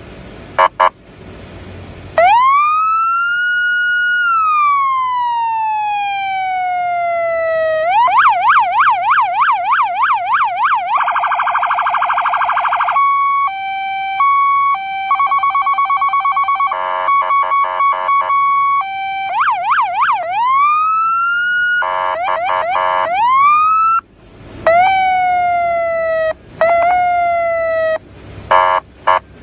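Code 3 RLS police siren cycling through its tones: a wail that rises and slowly falls, a fast yelp and a still faster warble, then a two-tone hi-lo, more rising wails and short chirps near the end.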